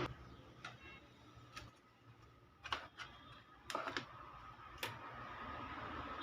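Five sharp clicks and taps, about a second apart, from the metal casing of a 250-watt amplifier and the tools being handled as it is opened up.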